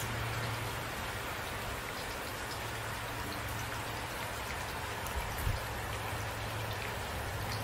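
Steady rain falling, an even patter of drops with no break.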